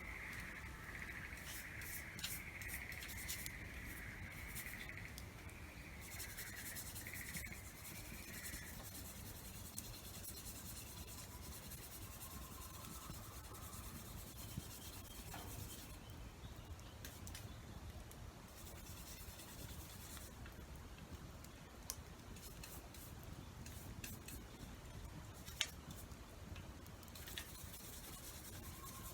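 Faint scraping with a few sharp clicks, and a steady high tone through roughly the first eight seconds.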